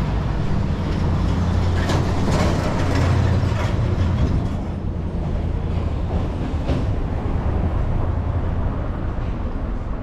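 A motor vehicle passing on the street, its engine rumble loudest about three seconds in and then fading, over general street noise.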